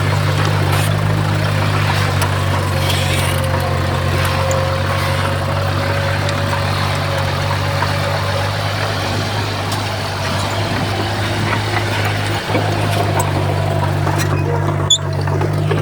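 Heavy diesel engine of earthmoving machinery running steadily at an even, low pitch, with a single sharp click near the end.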